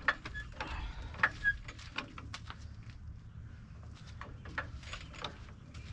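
Hand work on the truck with tools: a string of irregular metal clicks and knocks, with two short squeaks in the first second and a half.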